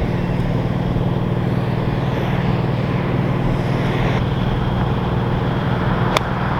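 Motor vehicle running steadily, a constant low engine hum with road noise. A single sharp click comes near the end.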